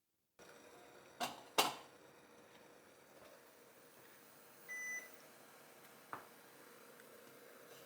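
Two sharp clicks, then one short high electronic beep from a kitchen appliance, then another click, over a steady faint hiss and hum.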